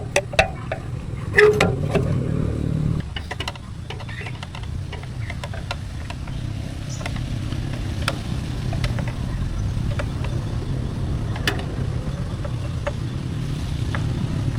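An engine running steadily with a low rumble that slowly grows a little louder, after a few sharp knocks in the first two seconds.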